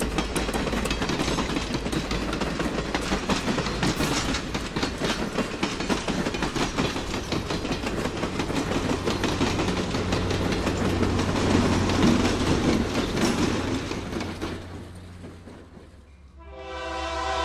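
Cape Cod Central dinner train's passenger cars rolling past, the wheels clicking rapidly over the rail joints with a steady rumble, which fades away about fourteen seconds in as the last car goes by. Near the end another locomotive's multi-tone horn starts sounding.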